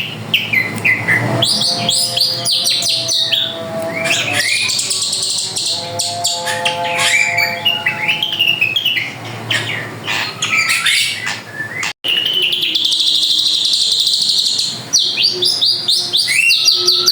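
Drongo (srigunting) singing a varied, chattering song of whistled sweeps and harsh calls. After a sudden break about 12 seconds in, it gives a buzzy trill lasting about three seconds.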